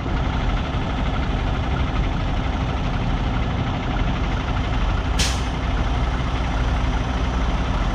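Semi-truck diesel engine running steadily at low revs while the tractor is slowly reversed, with one short hiss of air about five seconds in.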